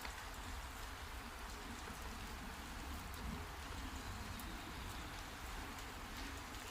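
Steady heavy rain falling, with scattered drops tapping on surfaces.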